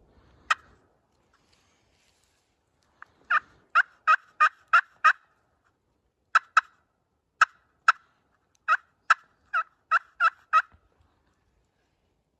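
Turkey yelps: a single sharp yelp, then runs of quick yelps at about three a second, with a few spaced ones in between.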